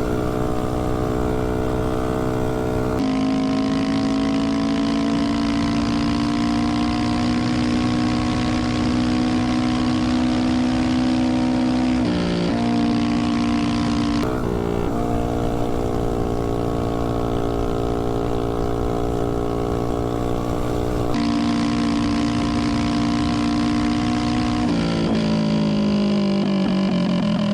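Tillotson 212 single-cylinder four-stroke engine on a mini bike, running on nitro-blended fuel and held at a steady high rpm, with a few abrupt jumps in pitch. Near the end the engine note falls as it slows down.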